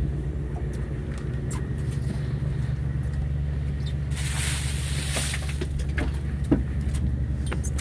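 Fishing boat's engine running with a steady low hum, with a brief hiss about four seconds in.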